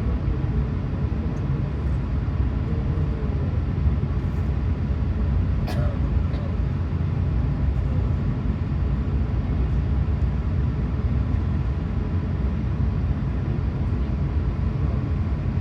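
Steady low rumble inside an Airbus A380-800 passenger cabin: engine and airflow noise heard from a seat. Faint voices murmur in the first few seconds, and a single click comes about six seconds in.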